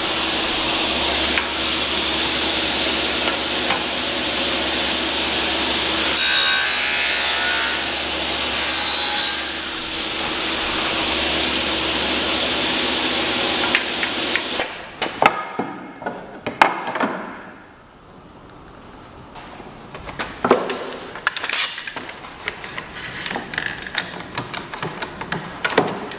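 Power saw running and cutting white oak, with a harsher stretch of cutting partway through. About two-thirds of the way in the motor winds down, and scattered clicks and knocks of wood and tools being handled follow.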